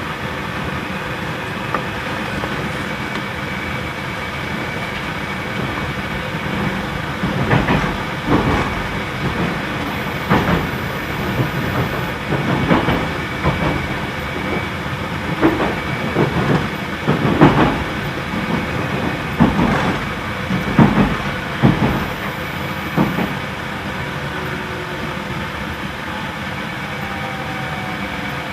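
JR Central 313-series electric train running into a station, its wheels clacking over rail joints and points in a run of about a dozen irregular heavy clacks through the middle. The steady rush of the car's air conditioning sits underneath, and a faint falling whine comes in near the end as the train slows.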